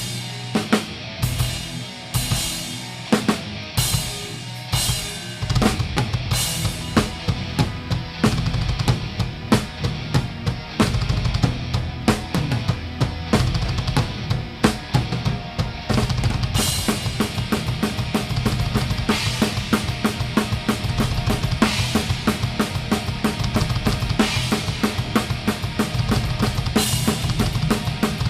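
Live metal band playing, with the drummer's Pearl Masters drum kit loud in the mix. Spaced accented hits with cymbal crashes open the passage, then a fast, driving beat on bass drum and snare sets in about five seconds in and thickens again near the middle.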